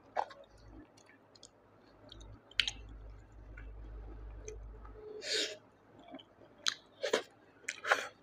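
Close-miked chewing of a mouthful of snail curry and rice, with scattered wet mouth clicks and smacks, the sharpest of them near the end.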